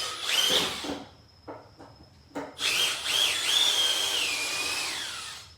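Milwaukee M12 Fuel Gen 2 drill in low speed driving a large T30-drive structural screw into wood: a short run with a rising whine, a few clicks, then a longer run of about three seconds whose whine drops in pitch as the motor slows and stops near the end.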